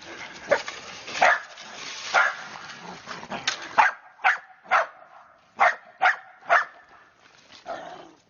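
A dog barking in short, separate barks. About four seconds in, the background hiss drops away and a quicker run of five barks follows, roughly half a second apart.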